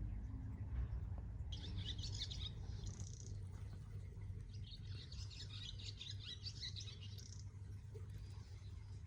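Faint, high-pitched rapid chirping in two runs: one about a second and a half long, then one about three seconds long, over a steady low hum.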